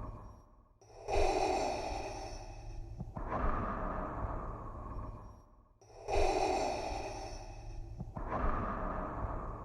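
Darth Vader's mechanical respirator breathing: two slow, hissing breaths in and out, each cycle about five seconds long with a short pause between, over a steady low hum.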